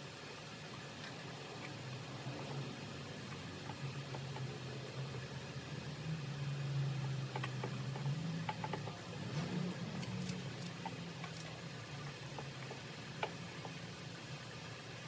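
Scattered light clicks and taps of metal parts as a two-stroke cylinder is worked down over the piston and its rings, over a steady low hum that swells for a few seconds mid-way.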